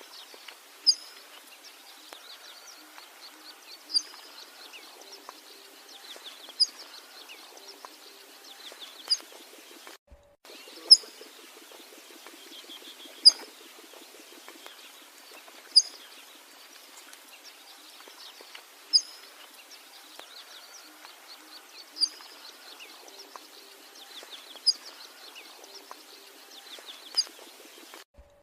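A bird repeating a single short, sharp, high-pitched call about every two and a half to three seconds, over a steady background of fainter chirping from other birds.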